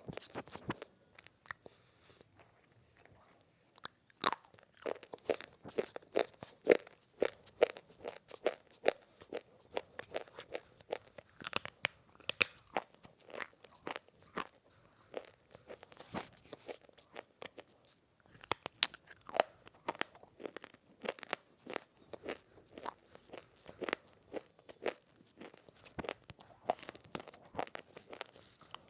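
Semi-roasted multani mitti (fuller's earth clay) being bitten and chewed close to the microphone: many sharp, dry crunches in quick succession. They are sparse for the first few seconds, then come thick and fast, with a brief pause about two-thirds of the way through.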